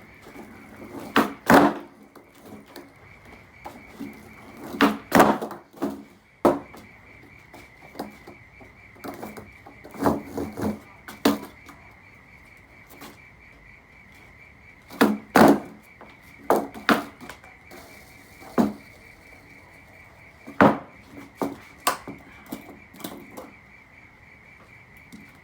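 Skateboard flatground tricks: repeated sharp pops and clacks of the board's tail and wheels hitting the ground, single or in quick clusters every few seconds. A steady high thin tone sounds underneath throughout.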